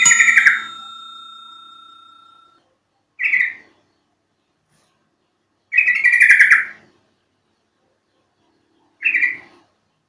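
Yellow-vented bulbul (trucuk) calls in four short bursty phrases a few seconds apart, played as a lure to get a caged bird to answer. A ringing tone fades out over about two seconds after the first phrase.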